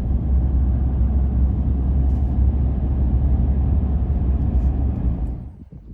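Ford Ranger driving on the open road: a steady low rumble of engine and tyre noise that cuts off about five and a half seconds in.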